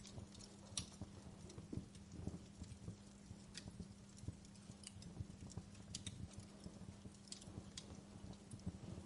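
Wood fire crackling quietly in a fireplace: irregular small snaps and pops, a few louder ones, over a soft hiss, with a faint steady low hum underneath.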